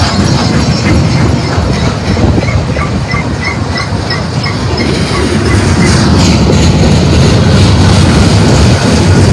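Freight cars of a Union Pacific manifest train rolling past close by: a steady heavy rumble of steel wheels on rail, with a short burst of clanking about six seconds in.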